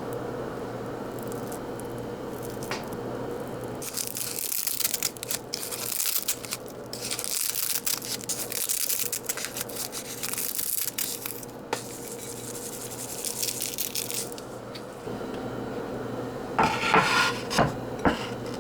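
Kitchen sink work: spurts of hissing noise like a running tap or spray, with scrubbing, over a steady low hum. A few ringing clinks like dishes near the end.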